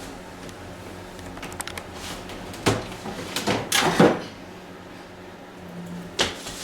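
Knocks and thumps from inside a shut refrigerator as someone shifts about and pushes at the door from within, with a few light clicks; the loudest thump comes about four seconds in, another about six seconds in.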